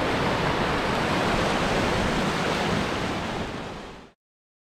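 Steady, loud rushing noise with no distinct events, fading out about four seconds in and cutting to silence.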